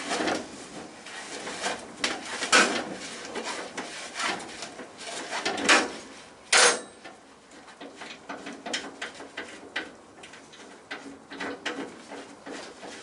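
Workshop tools and metal parts clanking and scraping, with several sharp knocks among lighter clicks.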